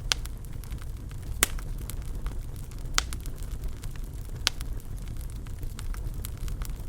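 Wood fire in a fireplace burning with a steady low rumble and scattered sharp crackles and pops, the loudest about one and a half, three and four and a half seconds in.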